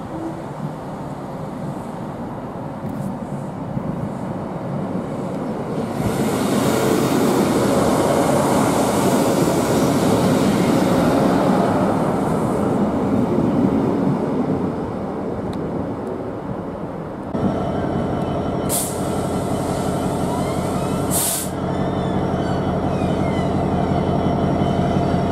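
A passenger train passes close along the platform, its rumble building to a loud rush of wheels and engine, then fading. A Class 66 diesel-electric locomotive's two-stroke V12 engine then drones steadily as it runs through, with two brief sharp high-pitched sounds a couple of seconds apart.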